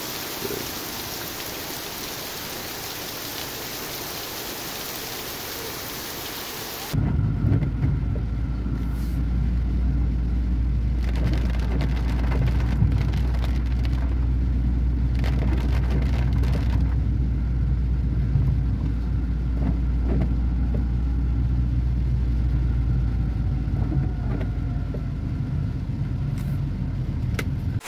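Steady rain hissing down. About seven seconds in it gives way abruptly to a car driving on a wet road in heavy rain, heard from inside the cabin: a steady low rumble, with rain on the windscreen.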